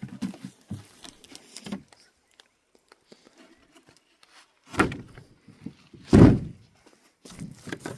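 Scattered knocks and thumps, with two heavy thuds about five and six seconds in, the second the loudest.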